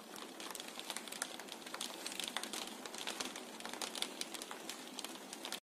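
Light rain, with drops tapping irregularly on window glass: many small sharp ticks over a soft hiss. It cuts off abruptly near the end.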